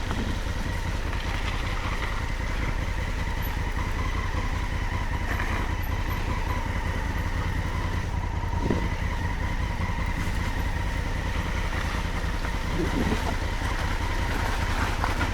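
Honda Africa Twin adventure motorcycle's parallel-twin engine running steadily as the bike rides along, a constant low rumble with no change in pitch.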